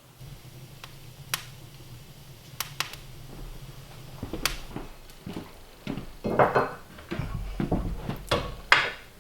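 Objects being handled and set down: scattered sharp clicks, then a busier stretch of knocks and rubbing in the last few seconds, with the loudest knocks about six and nine seconds in.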